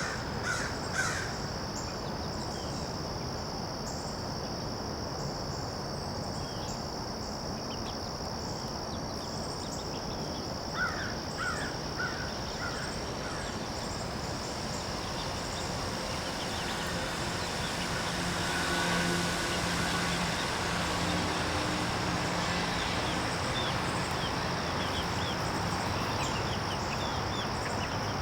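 A crow caws in a quick series of about half a dozen calls partway through, over a steady high-pitched drone. In the second half a broad low rumble swells and holds.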